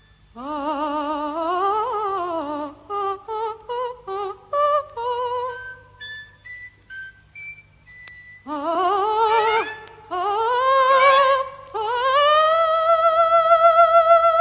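Female soprano singing a wordless operatic coloratura vocalise with wide vibrato, gliding runs and trills, over an orchestra. Short, steady high instrumental notes answer between the vocal phrases. Near the end the voice climbs to a long held high note.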